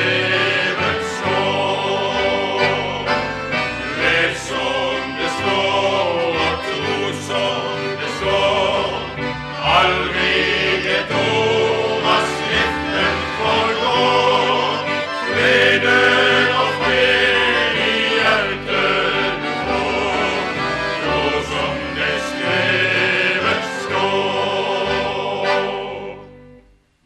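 A vocal group singing a Christian song with instrumental accompaniment and a steady bass line, ending about a second before the end.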